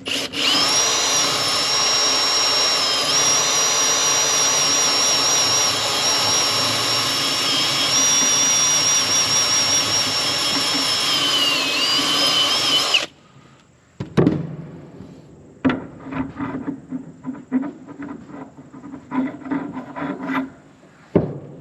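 A power tool runs for about thirteen seconds with a steady high whine that wavers and sags briefly near the end, then cuts off suddenly. Scattered light knocks and clatter follow.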